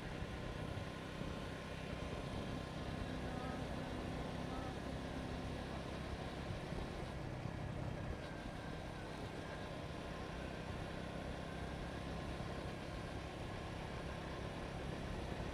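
Motorcycle engine running steadily under way, with road noise, picked up by the rider's helmet camera.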